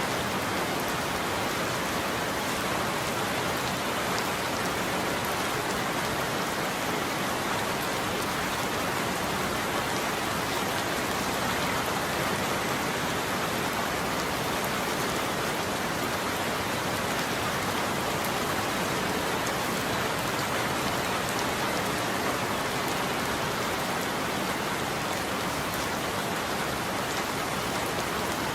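Steady heavy rain falling on a roof, an even patter of drops with no thunder.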